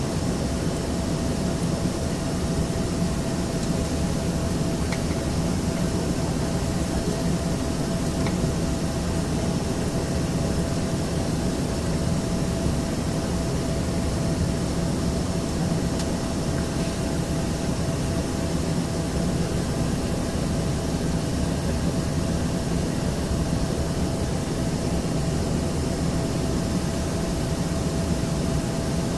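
Steady cabin noise inside an Embraer ERJ-135LR regional jet: a low hum of the engines and air-conditioning with a constant mid-pitched whine, unchanging throughout.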